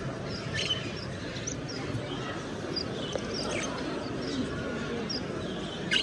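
Many caged birds chirping and tweeting in short, scattered calls over a steady murmur of crowd chatter in a large exhibition hall.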